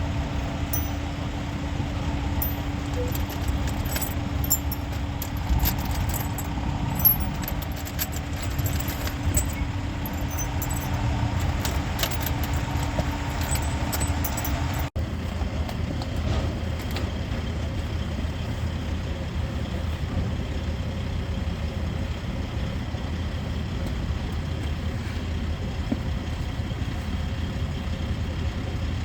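Road noise inside a moving vehicle: a steady low rumble from the engine and tyres, with small rattles and jingling like keys in the first half. About halfway through, the sound changes abruptly to a smoother, even rumble.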